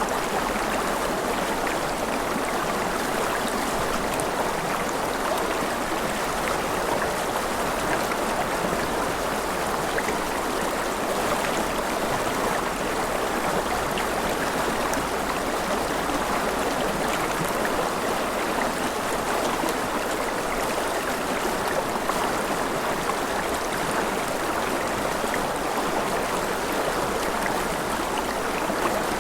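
Steady gentle rain: an even, unbroken hiss of falling water with scattered small drop ticks.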